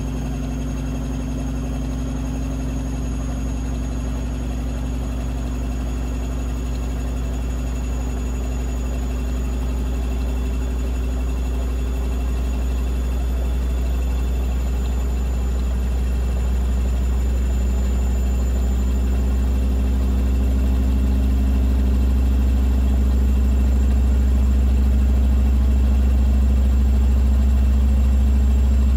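Blomberg fuzzyDigitronic Granat 3200 washing machine spinning: a steady, unbroken motor-and-drum hum that grows gradually louder.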